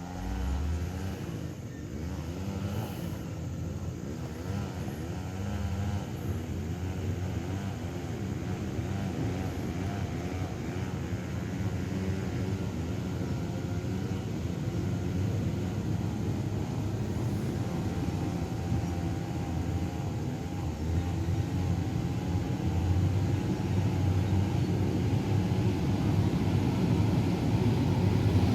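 Diesel engine of heavy earth-moving machinery running steadily under load, its pitch wavering a little, gradually growing louder.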